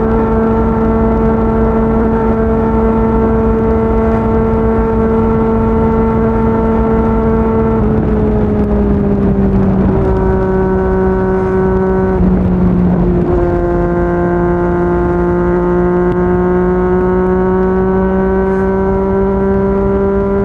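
Yamaha MT-09's three-cylinder engine through a Yoshimura R55 slip-on exhaust, running at steady revs at cruising speed over a constant rush of noise. About eight seconds in the revs ease down, then from about thirteen seconds they climb slowly again as the bike accelerates.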